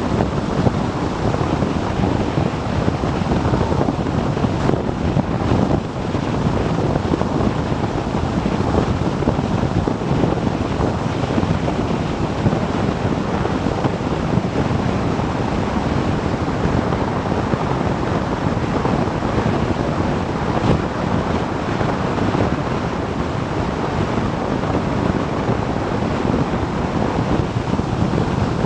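Steady rush of wind over the microphone of a motorcycle riding at speed, with the bike's running and road noise blended in.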